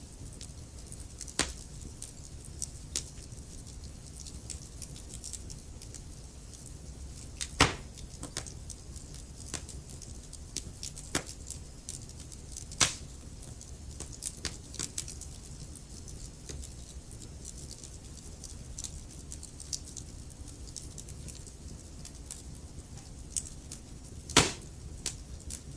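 Wood fire burning in a fireplace: logs crackling with irregular small pops over a low steady rumble, and a few sharper, louder pops scattered through.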